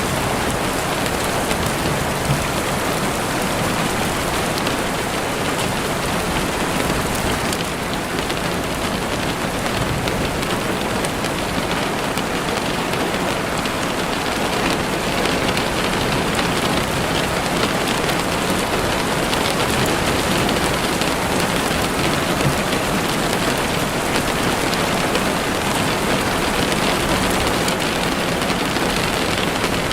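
Steady rain falling, a dense even hiss of drops pattering on surfaces with no let-up.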